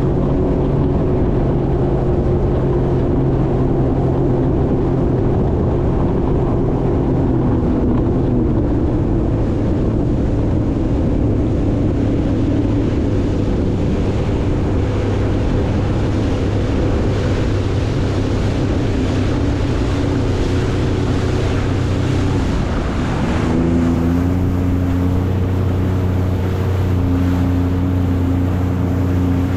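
Jet ski engine running under way, a steady motor note over rushing water and wind on the microphone. The engine note drops slightly about eight seconds in, dips briefly around twenty-three seconds and settles into a new steady pitch.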